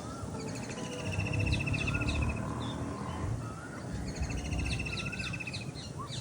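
Several birds calling together: a rapid pulsed trill comes about a second and a half in and again around four and a half seconds, mixed with short rising whistled notes. Under them runs a steady low rumble.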